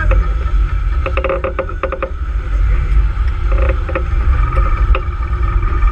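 Sailboat under way in a fresh 15–20 knot breeze, with a steady heavy rumble of wind buffeting the microphone. About a second in there is a short run of quick clicks or knocks.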